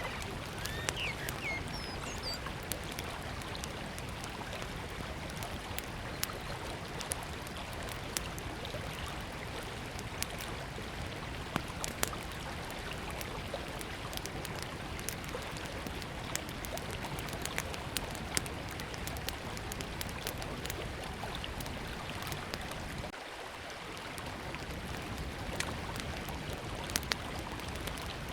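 Small campfire crackling, with frequent sharp pops, over the steady rush of a river. A bird chirps a few times about a second in.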